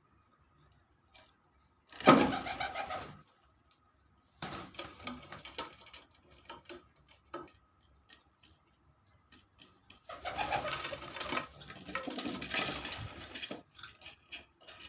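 Homing pigeons cooing in three bursts, about two seconds in, about four and a half seconds in, and a longer one of nearly four seconds starting about ten seconds in.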